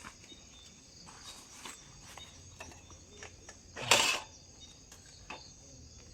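Insects trilling steadily in the background, with scattered small clicks and one loud, sudden rustle or knock about four seconds in.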